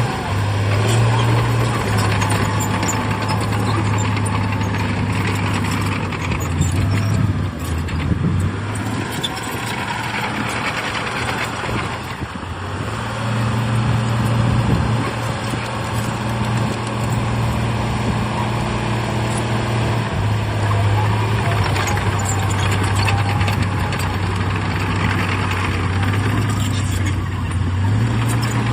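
Heavy diesel engine of earthmoving machinery running under changing load, its drone stepping between a higher and a lower pitch several times. A few metallic clanks come about seven to nine seconds in.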